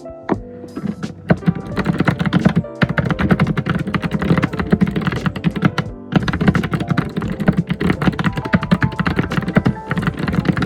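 Fast, vigorous typing on a computer keyboard, a dense run of key clicks that starts about a second in and breaks off briefly near the middle. Background music plays underneath.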